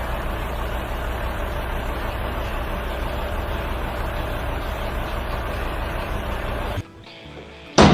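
A steady mechanical rumble, strongest in the low end, that cuts off abruptly near the end.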